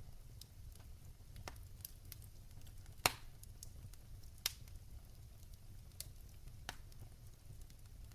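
Wood fire crackling in a fireplace: scattered sharp pops and snaps over a low steady rumble of flame, with one loud pop about three seconds in and another a second and a half later.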